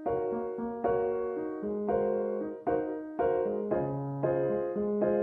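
Slow piano music, a chord or note struck about once a second and left to ring out.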